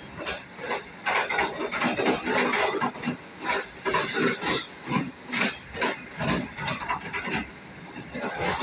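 Running noise of the moving Green Line passenger train, heard from the back of its last coach: a rush of wind and wheel-on-rail noise that surges and drops about once or twice a second.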